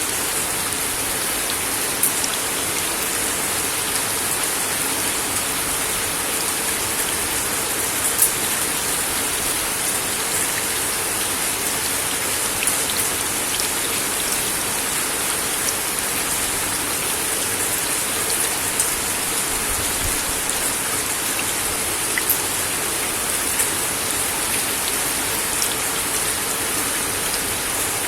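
Steady rain falling on a wooden deck, a constant hiss with sharper individual drops ticking every few seconds.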